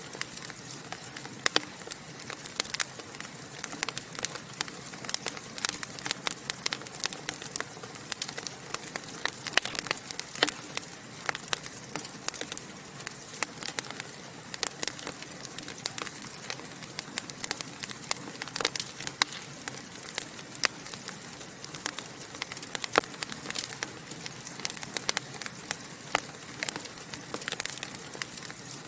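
Fire in a fireplace crackling and popping: frequent, irregular sharp pops over a steady soft hiss.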